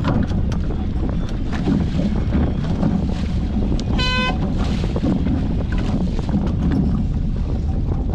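Wind buffeting the microphone and water rushing past a sailing Hobie 14 catamaran's hulls in a steady loud rush. About four seconds in comes one short, high toot.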